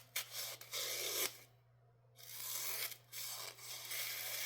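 Knife blade slicing through paper with a rasping hiss, in two runs of strokes with a short pause about one and a half seconds in. The edge of the 14C28N steel blade is sharp but toothy.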